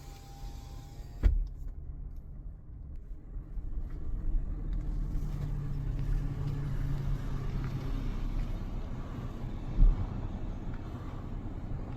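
Car driving slowly, a steady low engine and road rumble that gets louder about four seconds in. Two short thumps, about a second in and again near ten seconds.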